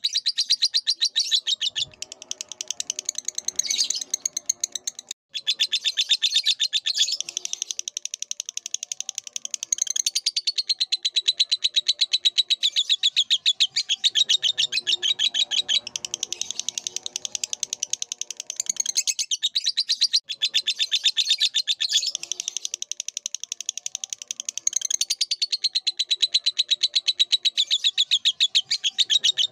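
Lovebird singing a long, very fast chattering trill: rapid chirps run on almost unbroken, with two brief pauses about 5 s and 20 s in.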